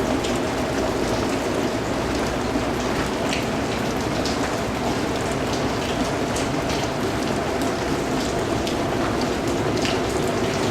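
Steady rain falling as an even hiss, with scattered sharper drop strikes throughout.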